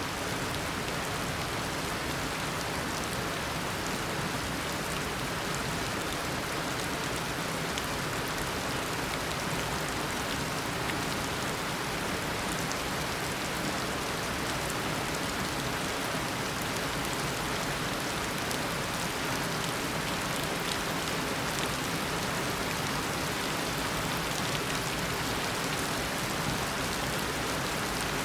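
Heavy tropical rain falling steadily, a dense even hiss of drops with fine pattering ticks.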